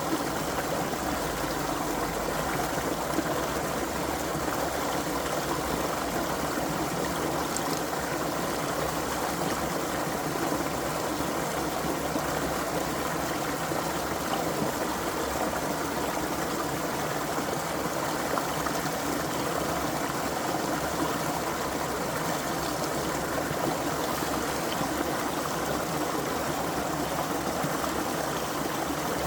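Creek water flowing and trickling, a steady, even rush with no breaks.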